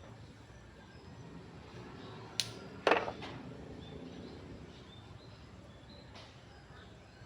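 Two sharp knocks about half a second apart, the second louder with a brief ringing tail, over a low steady hum.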